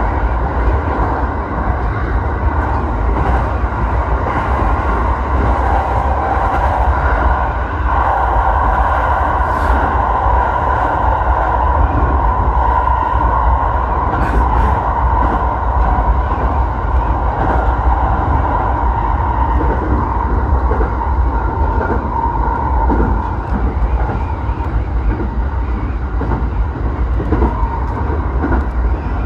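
Electric commuter train running along the JR Kawagoe Line, with a steady low rumble of wheels on rail and a constant higher hum, broken now and then by faint clicks from the track.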